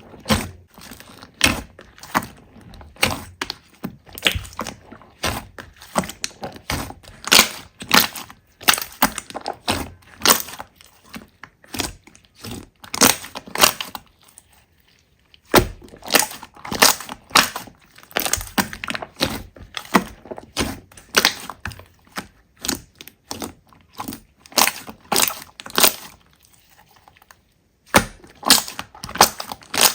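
Slime being squeezed and pressed by hand, giving irregular sharp crackles and pops, several a second, with a pause of about a second and a half partway through.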